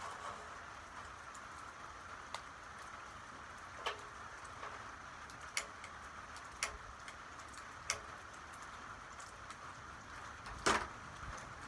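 Steady light rain hiss with a handful of separate drops ticking sharply on a hard surface at uneven intervals. The loudest drop comes near the end.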